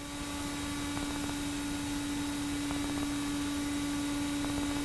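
Steady in-flight drone of a Pipistrel Virus SW's engine and propeller heard through the cockpit audio, one steady hum over a rushing hiss, rising in level over the first second and then holding even.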